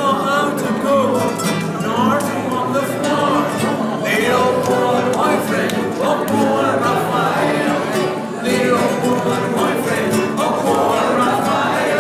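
A live song: voices singing with plucked string accompaniment.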